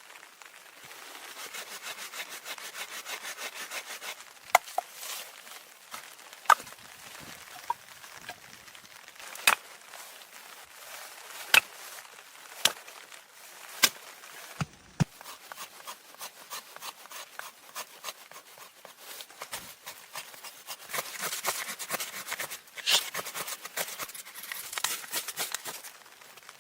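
Wood being cut by hand: rasping back-and-forth strokes, broken up by about seven sharp wooden knocks in the middle, then more hissing strokes near the end.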